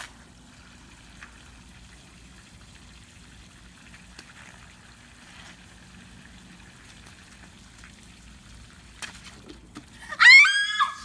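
Faint steady hum, then near the end a loud, high-pitched cry lasting about a second that rises and then falls in pitch.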